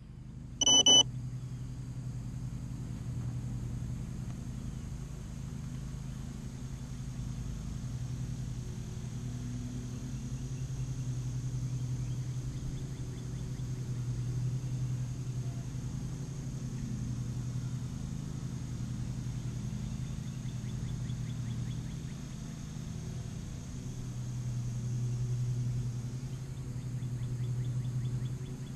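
FPV quadcopter motors and propellers humming steadily at a distance, swelling and easing gently with throttle. A short, loud electronic beep sounds about a second in.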